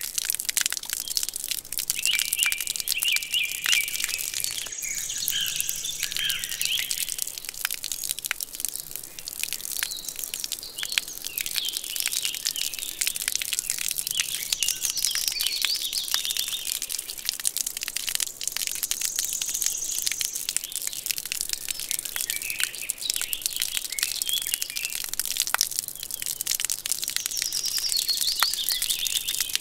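Small birds chirping and twittering in short bursts, over a dense, continuous fine crackling.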